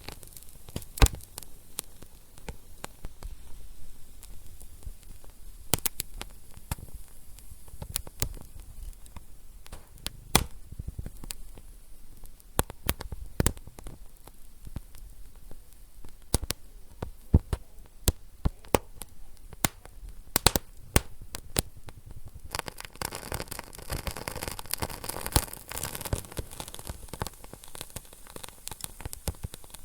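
Wood fire burning in a fireplace: sharp, irregular crackles and pops over a low hiss. About three-quarters of the way through, the hiss of the flames grows louder and steadier.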